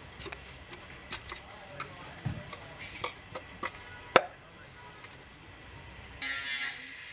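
Irregular light metallic clicks and taps from pistons and rings being worked into a Suzuki Swift engine block, about a dozen in four seconds, with one sharper knock about four seconds in. A short rasping hiss follows about six seconds in.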